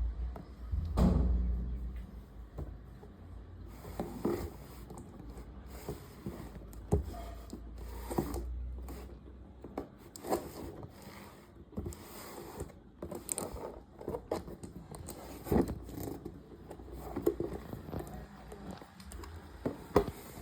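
Handling noises of a toy being unboxed: irregular scrapes, clicks and knocks as packaging and plastic parts are handled, with a low rumble during the first half.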